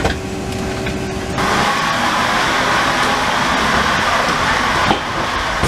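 Steady hum and rush of air in a parked airliner's cabin, which about a second and a half in turns into a louder, brighter steady hiss. There is a single click near the end.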